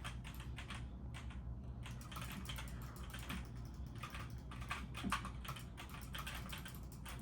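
Typing on a computer keyboard: irregular light key clicks, several a second, over a steady low hum.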